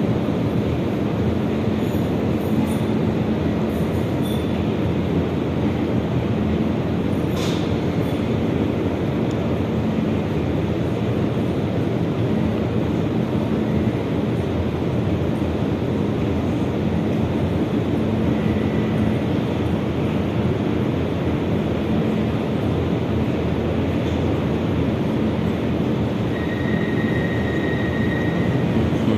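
Metro train running between stations, heard from inside the car: a steady rolling rumble and hum, with one sharp click about seven seconds in and a faint high wheel squeal near the end.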